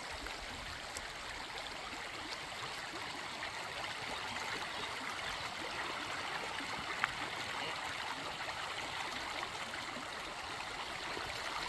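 Creek water rushing and gurgling steadily, with a single brief click about seven seconds in.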